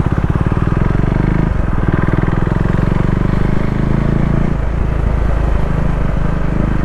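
KTM Duke 390's single-cylinder engine running as the motorcycle is ridden along, with the engine note changing twice along the way.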